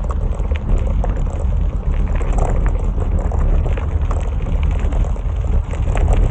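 Wind buffeting the microphone while riding a bicycle: a loud, steady low rumble with a rushing haze of road and tyre noise and scattered small clicks and rattles.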